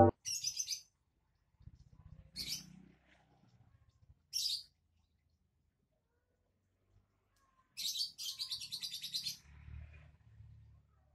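A small bird chirping in short high-pitched calls, with a fast twittering run about eight seconds in.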